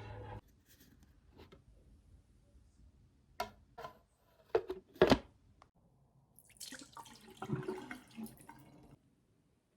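Several sharp knocks and clinks, the loudest about five seconds in, then about two seconds of water splashing and running.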